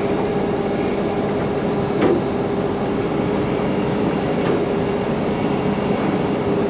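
Heavy wrecker's diesel engine and hydraulic winch running steadily under load, pulling a semi, with a constant hum and a few faint knocks.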